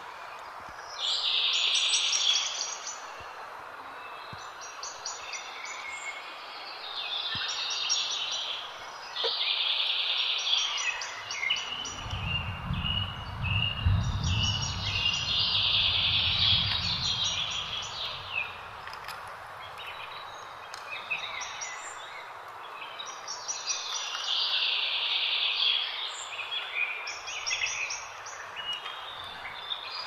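Wild birds singing in bursts of quick chirping song every few seconds over a steady outdoor hiss. A low rumble joins in for a few seconds near the middle.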